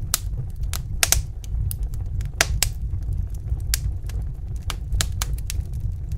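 Wood fire crackling: irregular sharp pops and snaps, a few louder ones about a second in and again around two and a half seconds, over a steady low rumble of the flames.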